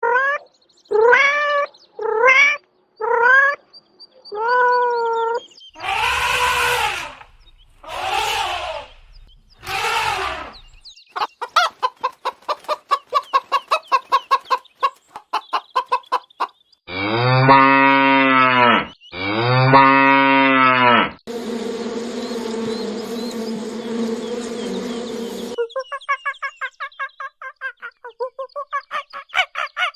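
A run of different animal calls, one kind after another: short arched cries repeated at first, then three longer harsh calls, a stretch of fast chattering, two long low calls just past the middle, a noisy stretch, and more fast chattering near the end.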